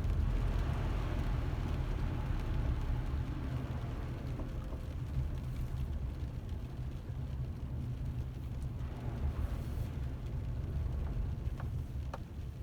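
Car driving, heard from inside the cabin: a steady low rumble of engine and road noise, with a few faint clicks near the end.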